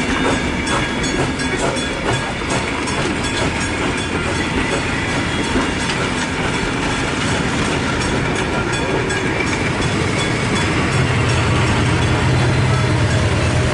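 Heritage train carriages rolling past over a level crossing, the wheels clicking and clattering over the rail joints. Near the end a steady low engine hum comes in and grows louder.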